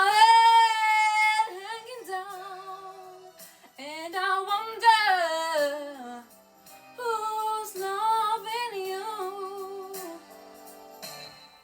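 A female soul singer with a mezzo-soprano voice singing a slow ballad, holding long notes with vibrato and sliding through runs, in three phrases with short breaks between, one with a falling run about four seconds in.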